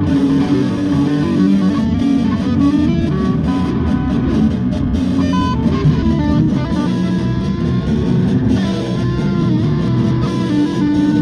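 A band playing live in a rehearsal room: guitar lines over bass, running without a break.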